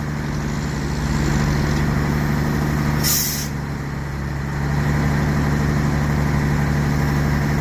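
Heavy truck engine running steadily, with a short hiss of compressed air about three seconds in.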